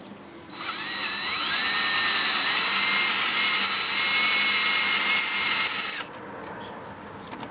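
A power tool's motor spins up with a rising whine, runs steadily with a hiss for about five seconds, then stops abruptly.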